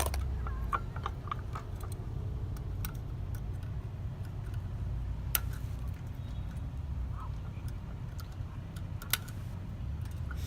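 Scattered light clicks and ticks of small parts being handled during wiring work, irregularly spaced, with a sharper click about five seconds in and another about nine seconds in, over a steady low hum.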